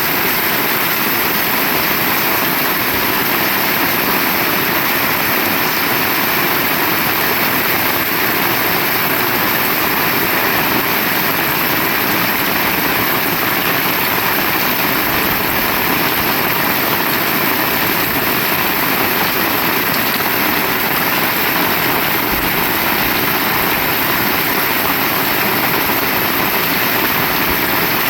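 Heavy rain pouring steadily, a loud, even hiss with no letup.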